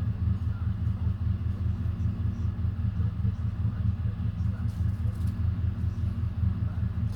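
A vehicle engine idling: a steady low rumble with a fast, even pulse.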